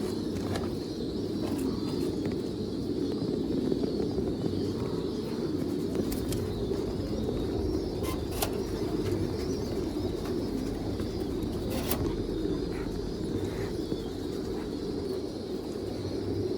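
Many domestic pigeons cooing together in a loft, a continuous overlapping murmur of coos, with a few sharp clicks.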